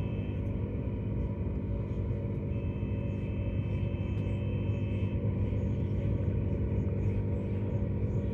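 Queensland Rail Tilt Train running at speed: a steady rumble with a low, even hum.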